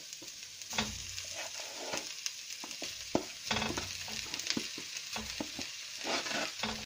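Onions and spices frying in butter sizzle steadily as chunks of raw goat meat drop into the pot, with frequent sharp knocks and scrapes from a wooden spoon pushing the pieces off a plastic tray. The sound cuts off suddenly at the end.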